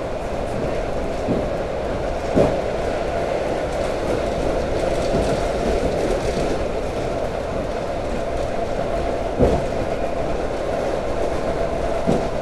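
Suburban electric train running at speed, heard from inside the carriage: a steady rumble of wheels on rail with a continuous hum. A few sharp knocks from the wheels, the loudest about two and a half seconds in and about nine and a half seconds in.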